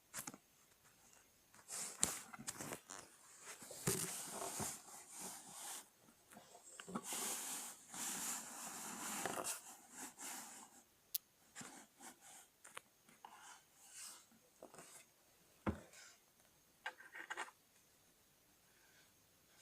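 Lego bricks being handled: irregular sharp plastic clicks and rustling, with a longer stretch of rummaging about seven to ten seconds in.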